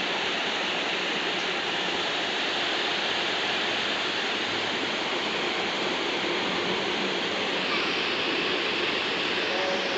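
Floodwater rushing in a steady, unbroken stream of noise.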